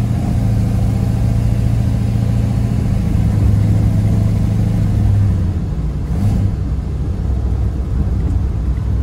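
Old car's engine heard from inside the cabin while driving, pulling with a steady low hum; a little over five seconds in the engine note drops to a lower pitch.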